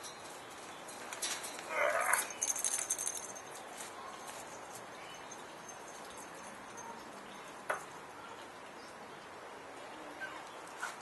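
A galah gives a short, harsh screech about two seconds in, with a brief high rustle right after it. A single sharp click comes later, over low background noise.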